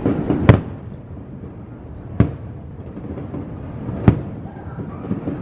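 Aerial fireworks shells bursting: a few sharp bangs, the loudest about half a second in, then one bang roughly every two seconds, each followed by a brief echo.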